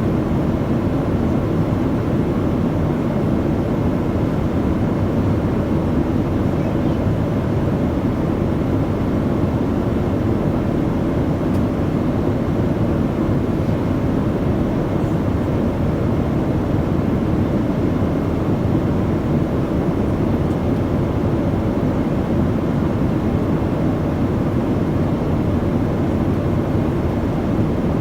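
Steady cabin noise of an airliner in flight: an even, low rumble that does not change.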